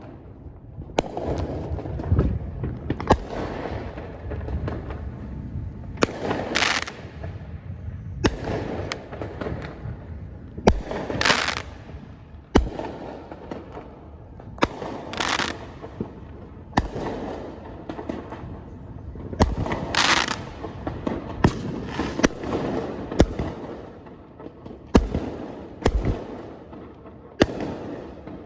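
Fireworks going off all around: a steady run of sharp bangs every second or so, some of them close, with several longer crackling bursts and a rumbling undertone from distant shells.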